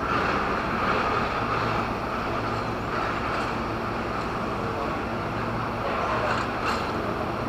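Electric commuter train, a former Tokyo Metro 6000 series, rolling into the station on a far track: a steady rumble with a faint low hum.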